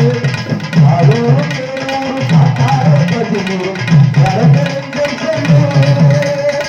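Tamil folk music for karagattam dancing: loud drum strokes in quick repeated clusters under a wavering, sliding melody line.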